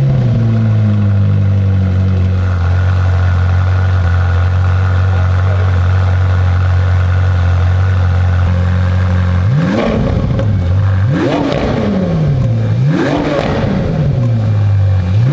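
Ferrari engine running through a new, road-legal Valvetronic exhaust back box with its original valves, idling steadily just after starting. About nine seconds in, it is revved about four times, each rev rising and falling in pitch.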